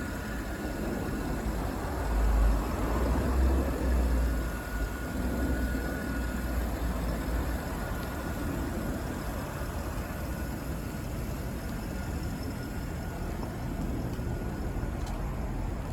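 Porsche Panamera 4S's 4.8-litre V8 idling steadily, with a stronger low rumble for a few seconds near the start.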